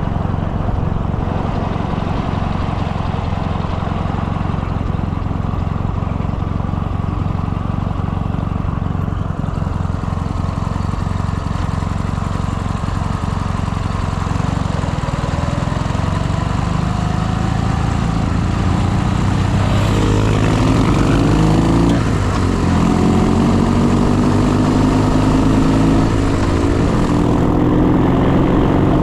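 Motorcycle engine running under way. In the second half its pitch rises and falls with throttle and gear changes, and it grows a little louder.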